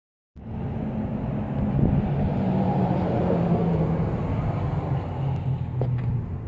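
Hyundai Genesis Coupe 2.0T turbocharged four-cylinder engine running steadily at idle, fitted with an aftermarket intake, intercooler, 3-inch downpipe and exhaust. Its pitch eases down slightly midway, with a couple of light clicks near the end.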